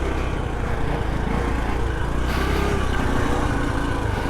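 Small petrol engine running steadily at low speed, with a little wavering in pitch near the middle.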